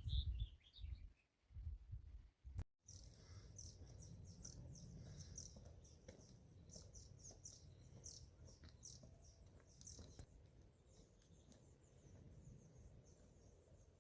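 Small birds chirping and twittering in quick, repeated high notes over a faint low rumble. A few low thuds come in the first couple of seconds.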